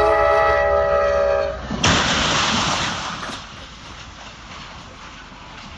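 Train horn sounding a chord of several steady tones, cut off after about a second and a half, followed by a sudden loud crash as the train strikes a car on the tracks, the noise fading over the next second or so into the train's running rumble.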